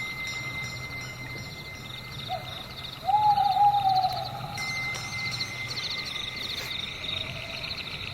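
Night forest ambience: an owl calls twice, a short note a little over two seconds in and a longer falling call about a second later. Underneath runs a steady, high, pulsing chorus.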